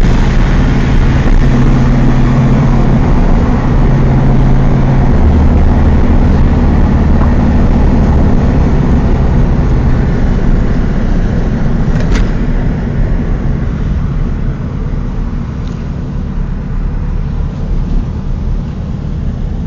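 Air-cooled flat-four engine of a 1992 Volkswagen Beetle running while driving, heard from inside the cabin with road noise; its low drone shifts pitch a few times in the first half and eases off in the second half. A sharp click about twelve seconds in.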